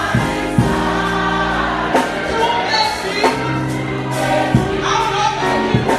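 Gospel music with a choir singing over steady instrumental backing and a regular beat.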